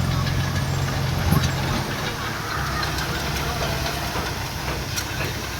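Heavy-equipment diesel engine running with a low hum, strongest for about the first second and a half and then dropping back, with a few light clanks.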